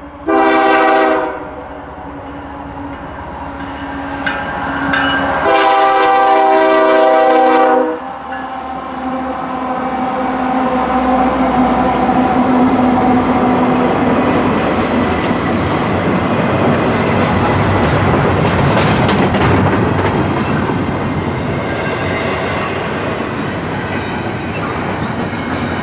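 A locomotive horn sounds a short blast, then about five seconds later a longer one of about two and a half seconds. The train then rolls past, its wheel-on-rail noise building into a steady rumble with clickety-clack over the rail joints.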